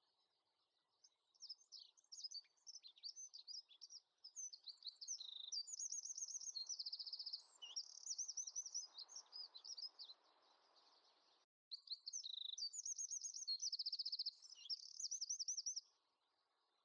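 Songbird singing: quick high chirps and rapid trills, starting about a second in, breaking off sharply for a moment at about eleven and a half seconds, then going on until about a second before the end.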